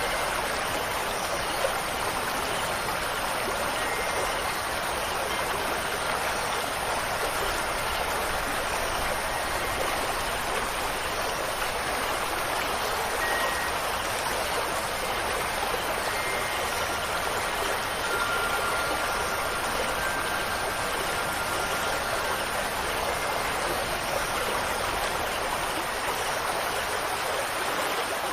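Steady rushing water, an even hiss that never lets up, with a few faint brief high tones here and there.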